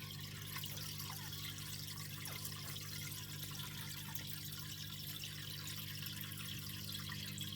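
Water from a terrapin tank's filters splashing and trickling steadily into the tank, over the even low hum of the filter motors.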